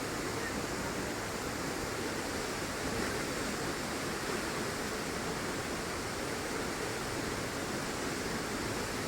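Steady rush of water from Dassam Falls, an even wash of noise with no breaks.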